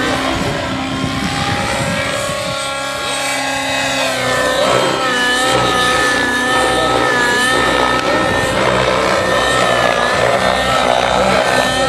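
Nitro engine and rotors of a Synergy N9 radio-controlled helicopter in flight. Its whine dips and rises in pitch over the first few seconds, then holds fairly steady.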